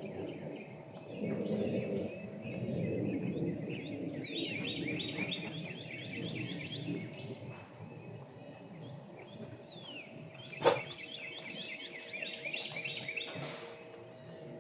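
Unexplained low rumbling, creaking noise from the sky, steady with a faint hum in it. Birds call over it: twice a falling whistle runs into a quick string of chirps, about four seconds in and again near ten. A sharp click comes a little after that.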